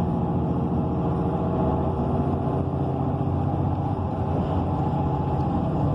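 Cummins Westport ISL G natural-gas engine of a transit bus running steadily, heard from inside the passenger cabin as an even drone.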